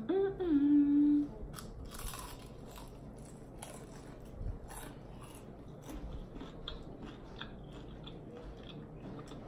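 A short hummed note from the eater's voice, then crisp crunching bites and chewing of a fried chicken wing, with sharp crackles from the fried skin scattered through the rest.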